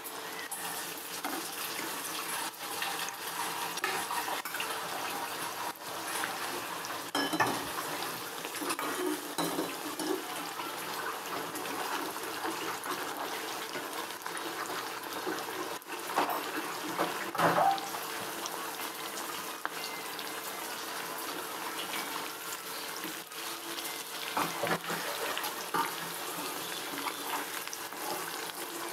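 Potatoes sizzling steadily as they fry in oil in a kadai, with a metal spoon scraping and clinking against the pan a few times as they are turned.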